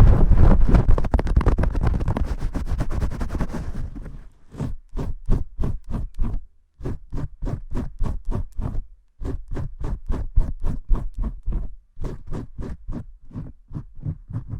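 Vigorous scrubbing and scratching close to the microphone, simulating shampooing a head of hair. It is dense and continuous for about the first four seconds, then breaks into separate rhythmic strokes, about four a second, in short runs with brief pauses.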